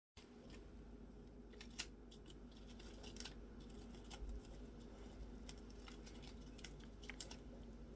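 Faint, scattered light clicks and taps of a budgie moving about and handling its toys, the sharpest click about two seconds in, over a faint steady low hum.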